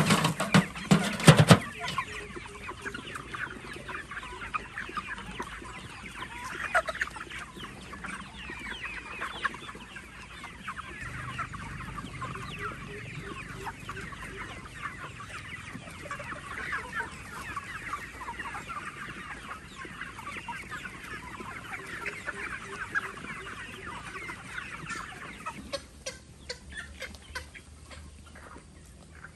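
Many chickens clucking together in a dense, steady chatter of short calls that thins out near the end. A few loud knocks sound in the first second and a half.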